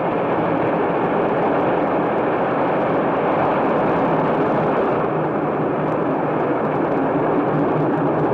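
Steady drone of a propeller airplane's engine in flight, an old optical-soundtrack recording with heavy hiss.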